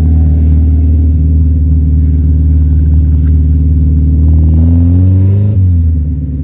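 Fiat Premio's turbocharged 1.5 engine, heard from inside the cabin, running steadily at low revs. About four seconds in it climbs in pitch as the car accelerates for about a second, then drops off abruptly.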